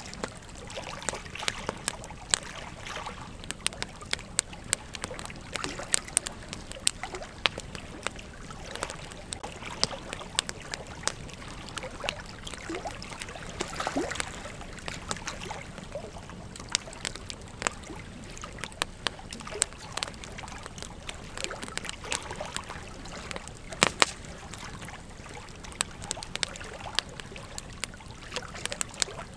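Campfire burning, crackling and popping over a steady hiss, with sharp pops scattered throughout; the loudest pop comes about 24 seconds in.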